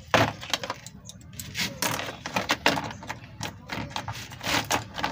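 Irregular metallic clicks and clinks of hand tools working at a stripped, rounded screw on an engine's distributor, the sharpest knock just after the start.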